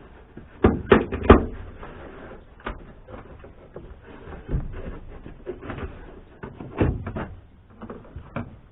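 Sharp knocks and clunks of plastic interior trim being handled and pried loose inside a small car, with the loudest cluster of three about a second in and scattered knocks later.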